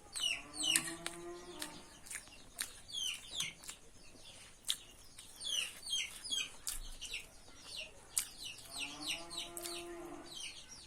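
Small birds chirping, a busy run of short falling chirps several times a second, with scattered sharp clicks. Twice a longer, steady, held call rises over them: once near the start and once near the end.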